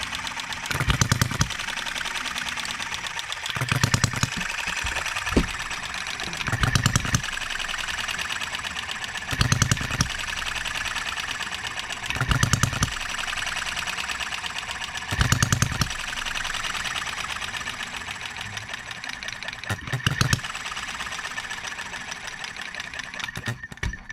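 Enjomor 6cc hit-and-miss model engine running with no load: a short burst of firing strokes about every three seconds, with a fast mechanical clatter as it coasts between them. It has no coolant in it and is not yet warm. The sound cuts off near the end.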